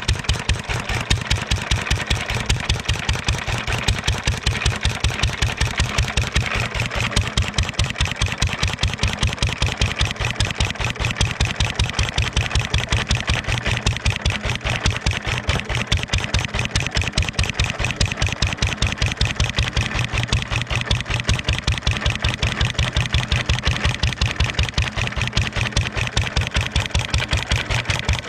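1.5 hp International LA single-cylinder stationary engine running steadily on its own, an even rapid beat of exhaust strokes with no misses or change in speed.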